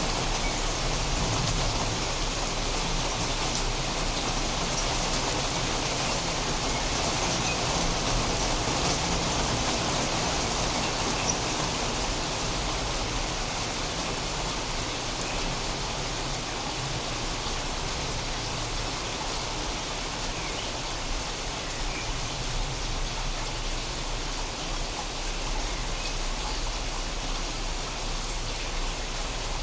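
Steady heavy rain falling during a thunderstorm, an even, unbroken hiss of rain on surfaces.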